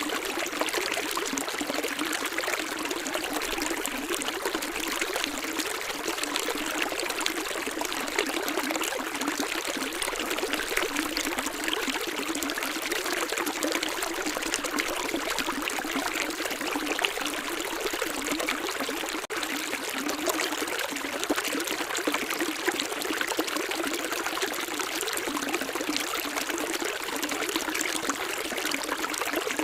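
Running water, a steady trickling and splashing flow without a low rumble. A momentary break in the sound comes about two-thirds of the way through.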